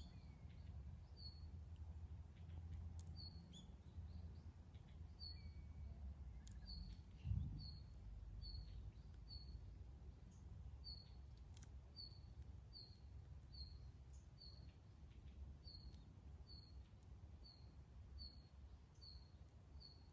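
A bird repeating a short high chirp, about two a second, over a low outdoor rumble, with a few faint crackles from a wood campfire. A single dull thump about seven seconds in.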